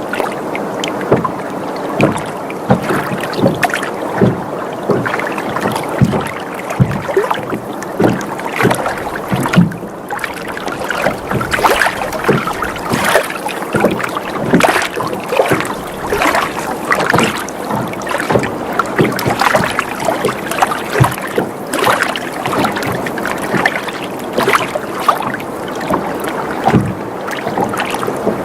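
Water sloshing against a sailboat's hull, with frequent irregular creaks and knocks from the boat as it rocks on gentle waves.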